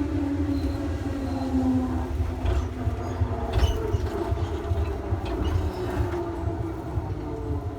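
Electric commuter train running, heard from on board: a steady low rumble with a motor whine that falls in pitch over the first two seconds, and a few knocks of the wheels over rail joints a few seconds in.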